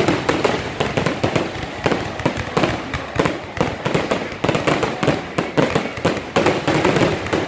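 Fireworks exploding in quick succession: a dense, continuous run of sharp bangs and crackles, several a second.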